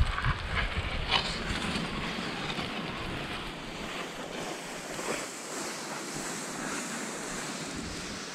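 Blizzard wind rushing steadily, buffeting the microphone with a low rumble for the first few seconds.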